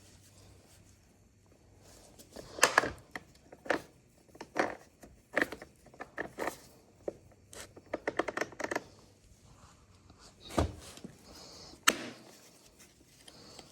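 Irregular clicks, taps and knocks of chainsaw parts and hand tools being handled during repair work, some in quick clusters, with two louder knocks near the end.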